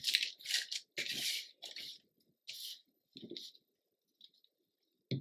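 Paper and cardstock rustling as pieces are handled and shifted on a journal page: a quick run of rustles in the first two seconds, then a few softer ones and a light knock near the end.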